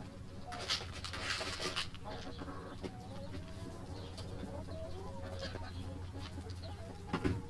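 Chickens clucking with short, wavering calls. About half a second in comes a brief burst of noise, and near the end a single thump.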